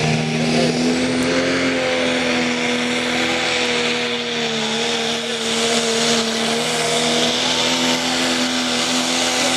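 Diesel pickup truck's engine running at high, nearly steady revs under heavy load as it pulls the weighted sled.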